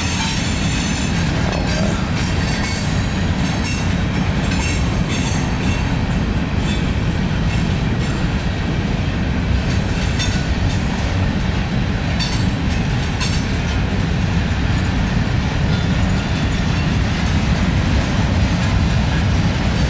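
A long Norfolk Southern mixed-freight train's cars rolling past close by. There is a steady heavy rumble of wheels on rail, with irregular clacks and rattles of the wheels and cars.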